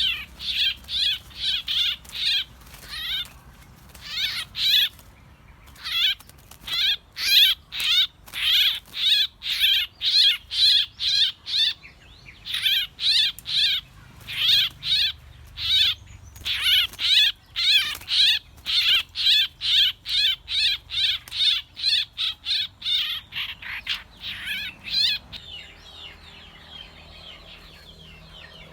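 A bird calling over and over in quick, short, wavering chirps, about two to three a second, that stop near the end.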